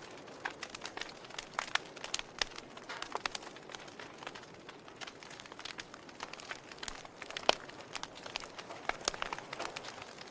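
Fire burning, crackling with irregular sharp pops over a soft steady hiss; one louder pop about seven and a half seconds in.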